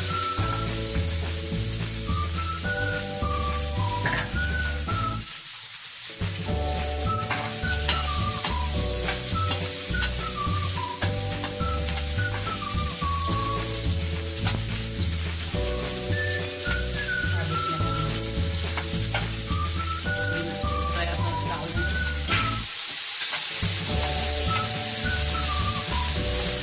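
Chopped onion and green capsicum sizzling in a non-stick frying pan on a full, high gas flame, stirred with a spatula that clicks against the pan now and then. Background music with a looping bass line and melody plays throughout, dropping out briefly twice.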